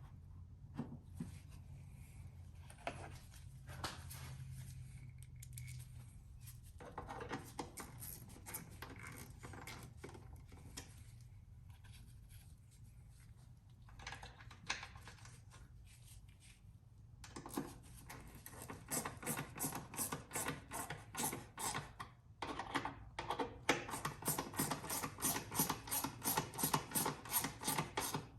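Hands fitting a new mass airflow sensor into its plastic housing: rubbing and scraping of parts, then from a little past halfway a fast, even run of clicks that goes on to the end.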